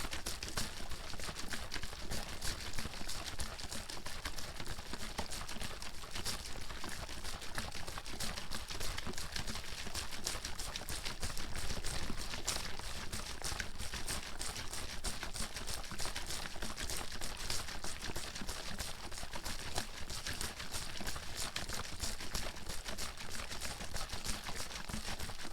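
Water bottle being shaken continuously, the water sloshing and slapping inside in a rapid, uneven patter of splashes.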